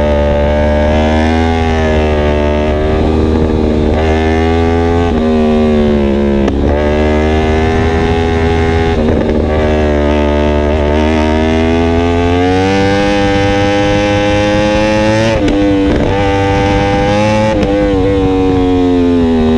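2016 Yamaha R1M crossplane inline-four sport bike running through an Akrapovic exhaust at riding speed. The engine note climbs and falls with the throttle, with quick drops about 5, 6.5, 15.5 and 17.5 seconds in, and a long steady climb in between.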